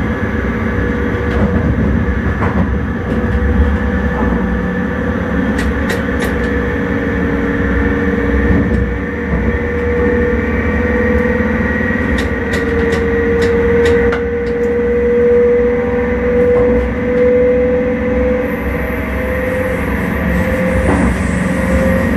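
Electric intercity train heard from the driver's cab while running, with a low rumble of wheels on track. A steady motor whine slowly rises in pitch as the train gains speed. A few sharp clicks come about six seconds in and again around twelve to fourteen seconds.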